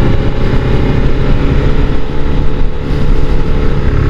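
Honda NC750 DCT motorcycle's parallel-twin engine running steadily while riding, under heavy wind rush on the helmet or bike microphone.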